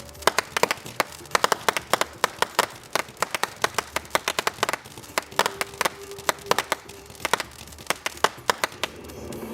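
Fireworks crackling: a rapid, irregular string of sharp cracks, several a second.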